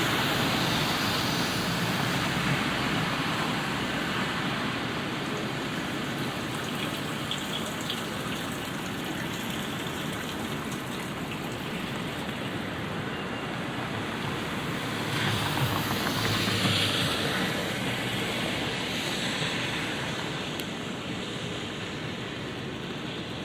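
Light rainfall on a city street at night: a steady, even hiss of rain and wet pavement. About fifteen seconds in it swells for a few seconds as a vehicle passes on the wet road, then settles back.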